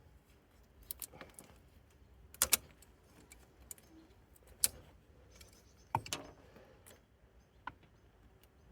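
Light metallic clinks and knocks, a handful of separate ones, from tools and small metal parts being handled while working on an engine; the loudest comes about two and a half seconds in.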